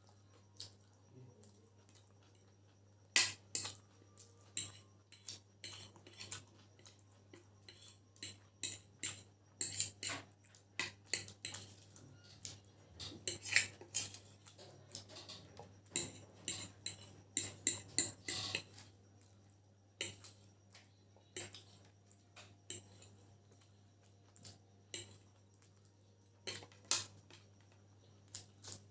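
Cutlery clinking and scraping against a plate during a meal of chicken chow mein. The clicks are quick and irregular and come thickest in the middle, over a faint steady hum.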